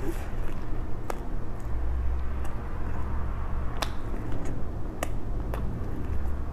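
Close-miked eating of chicken lollipops: chewing with a few sharp mouth smacks or clicks, about four in all, over a steady low rumble.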